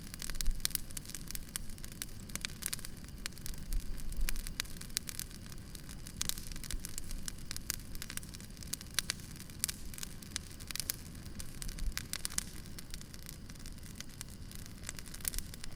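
Campfire burning with constant irregular crackling and popping of the wood over a low, steady rumble of the flames.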